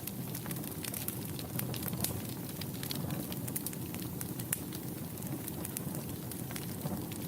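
Wood fire burning in a fireplace: a steady low rush of flames with many sharp, irregular crackles and pops from the burning logs.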